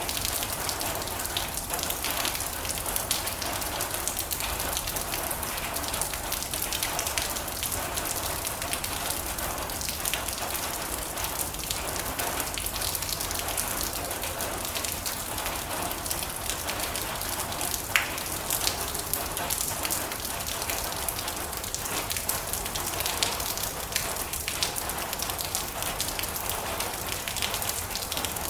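Heavy rain drumming steadily on a metal roof: a dense hiss of drops with scattered sharper pings, a few louder single drops standing out, one of them about eighteen seconds in.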